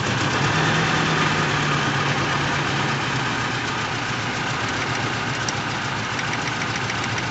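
Toyota Innova gasoline VVT-i engine idling steadily with a misfire: one cylinder is not firing properly.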